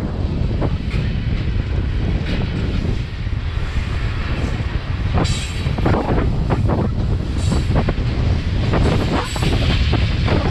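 A train rolling past on the track, with a continuous heavy rumble and the clatter of rail-car wheels, plus a couple of brief sharper sounds about five and seven and a half seconds in.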